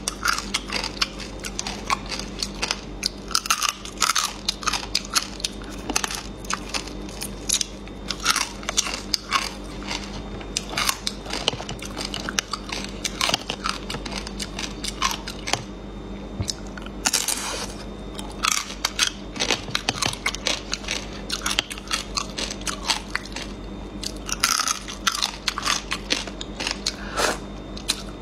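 Close-miked eating of pickled chicken feet: biting and chewing with many sharp, crunchy clicks and wet mouth sounds, and a brief hiss a little past the middle.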